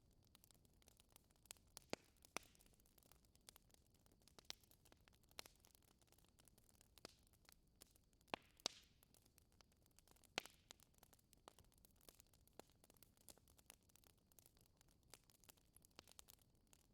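Wood fire crackling in a fireplace: faint, irregular snaps and pops over a soft hiss, with a few sharper pops about two seconds in and again around eight to ten seconds in.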